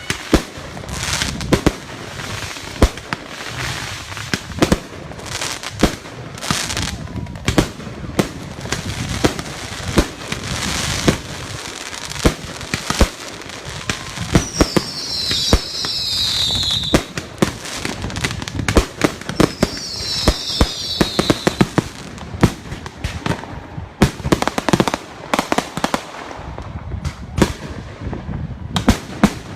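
Consumer fireworks going off over a lake: a steady run of booming bangs and sharp reports mixed with crackling, and twice a high, falling whistle, once about halfway through and again a few seconds later.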